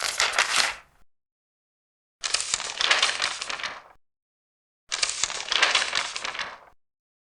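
Three turns of a large paper page, each a second or two of crisp rustling, with silent gaps between them.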